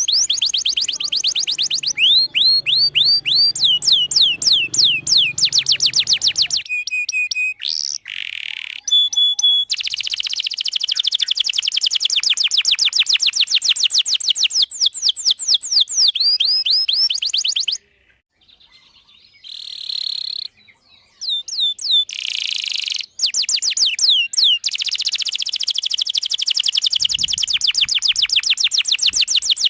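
Domestic canary singing: long, fast rolls of high chirps repeated many times a second, broken by a few held whistled notes and a short pause past the middle.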